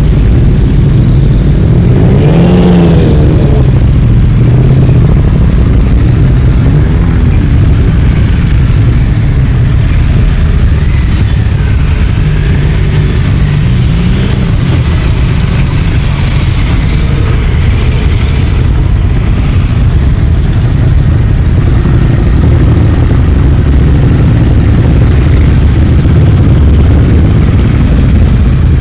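A steady stream of motorcycles riding past, engines running loud with revs rising and falling as bikes go by, one rising rev about two seconds in.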